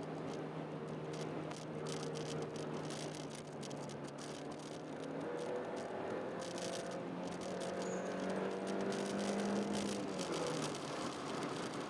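Honda Jazz 1.3-litre four-cylinder engine under way, heard from inside the car. Its note holds steady for a few seconds, then climbs slowly for about six seconds before falling off near the end, as the engine is lifted off or shifted up. Light clicks and rattles run through it.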